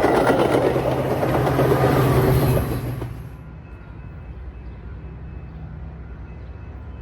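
A train rolling past close by with loud wheel and rail noise that drops away abruptly about three seconds in, leaving a quieter low steady hum.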